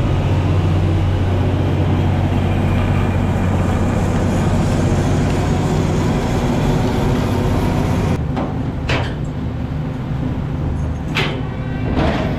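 A trawler's engine running steadily, a low drone with a wash of noise over it. About eight seconds in, the sound changes and gets a little quieter, and a few short rushing bursts come through.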